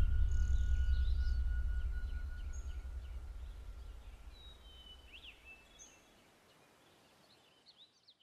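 Small birds chirping and singing, short scattered calls, over a low rumble that fades out over the first six seconds. Only the faint chirps are left near the end.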